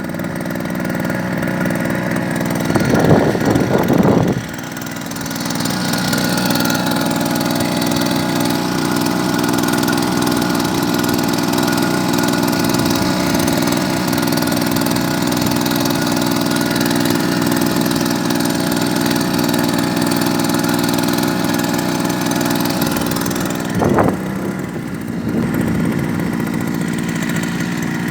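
Small grass-cutter (brush-cutter) engine driving a boat, running steadily. A short louder noise comes about three seconds in; the engine then drops back and picks up speed again over the next couple of seconds before holding steady, with another brief louder noise near the end.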